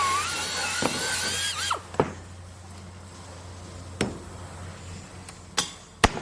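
Power drill running with a wavering whine that stops a little under two seconds in, followed by a few sharp knocks over a low hum.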